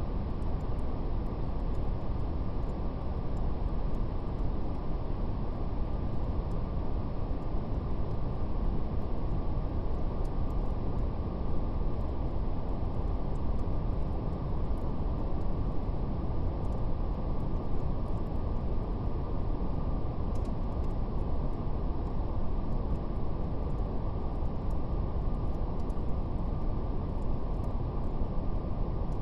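Steady brown noise, a deep, even hiss with nothing above about 1 kHz, under a faint crackle of a fire in scattered soft ticks.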